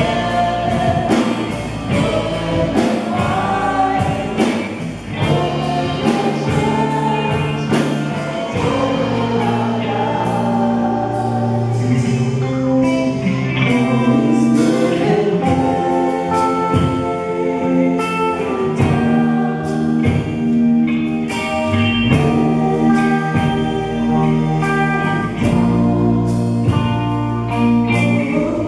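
Live contemporary worship music: voices singing a gospel-style song over a band, with sustained bass notes and a steady drum beat.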